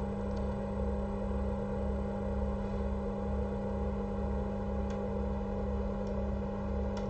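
Steady electrical hum with a low throb pulsing about twice a second, and a few faint clicks.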